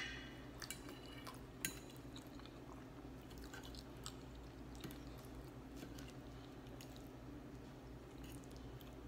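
Chewing of chicken pot pie, soft wet mouth sounds, with a sharp clink of a metal fork on the plate at the start, another about a second and a half in, and lighter clicks scattered throughout.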